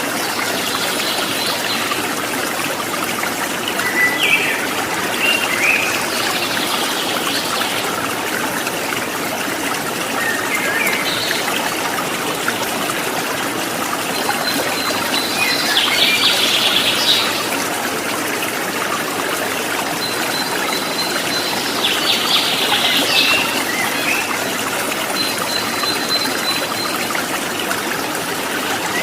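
A small stream babbling and trickling steadily, with songbirds calling now and then over it, including two longer chattering trills partway through and the second half.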